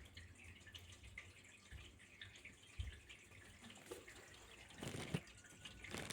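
Faint trickling and dripping water, with louder splashes about five seconds in and again near the end.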